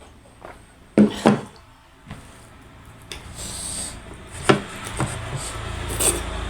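Close-up eating sounds: a few sharp clicks and crunches, two close together about a second in, then one near the middle and one near the end, with a brief hiss a little after three seconds and a low rumble building after about five seconds.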